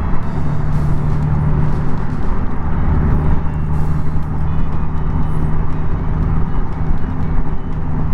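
Honda Gold Wing's flat-six engine running steadily at road speed, with a low even hum under a steady rush of wind and road noise.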